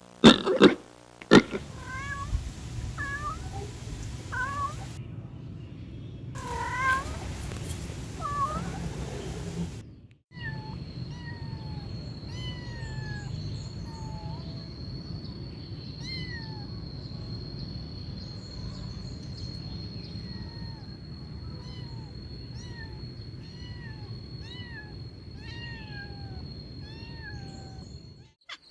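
Kittens mewing: a string of short, high mews, about one or two a second. A few sharp knocks come at the very start, and in the second half a steady high trill, like an insect's, runs behind the mews.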